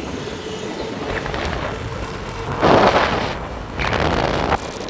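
Road and wind noise from a moving vehicle, with two loud rushing bursts of about half a second to a second each, a little past the middle and near the end.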